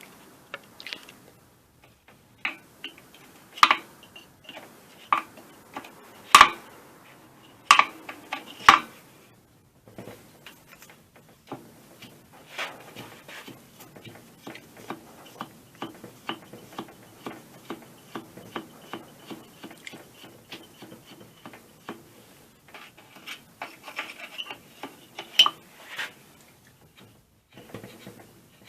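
Wrench loosening a nut on an air compressor's cylinder head: a few sharp metal clinks, then a long run of quick, even ticks as the nut is worked off, with more clinks near the end.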